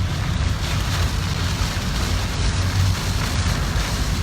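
Steady noise inside a car driving through typhoon rain and wind: a low road rumble with a hiss of rain and spray over it.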